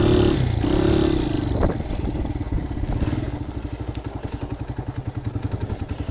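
Honda XR80R's small single-cylinder four-stroke engine revving, then dropping back to a slow, pulsing putter about two seconds in, with one sharp knock just before the drop.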